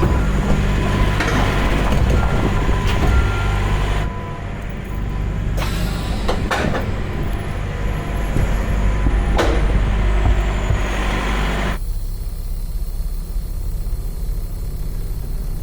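Peterbilt semi truck's diesel engine running steadily, with reversing beeps repeating for the first few seconds and a couple of short sharp sounds in the middle.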